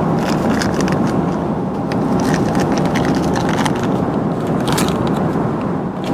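Steady cabin drone of an Airbus A330 in cruise, with irregular crinkling and rustling as small packaged items are handled out of an amenity kit pouch.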